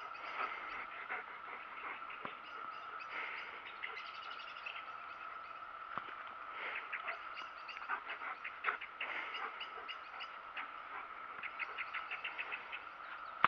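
Birds chirping in short, rapid trills, over a steady thin high tone.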